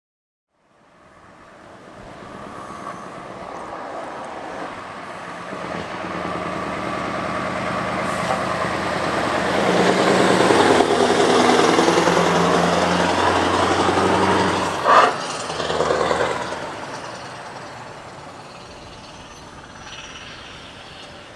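Heavy truck driving past: its diesel engine grows louder as it approaches, is loudest in the middle, then fades as it moves away. A short, sharp hiss of air, like an air brake, comes about two-thirds of the way through.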